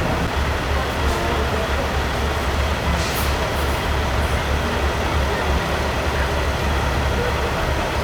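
Peterbilt semi trucks' diesel engines running with a steady low rumble. A short hiss of air brakes comes about three seconds in.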